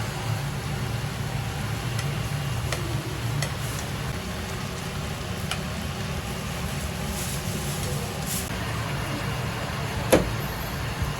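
A steady low machine-like hum with scattered light clicks, and one sharp knock about ten seconds in.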